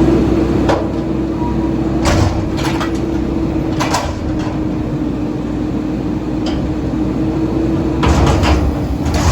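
Straight-piped Mack MR rear-loader garbage truck running with a steady hum, with repeated metal clanks and bangs from its Leach rear loader, including a quick cluster of knocks near the end.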